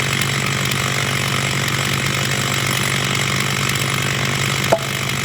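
Two-stroke chainsaw running steadily at high speed, with one sharp click near the end.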